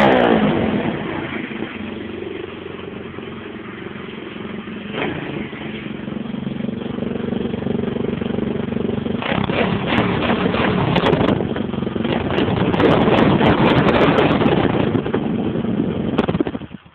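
Pit bike engine running through a homemade exhaust: it settles to a steady idle after a rev, then is revved and run harder, louder and rougher, from about a third of the way in. It cuts off suddenly near the end.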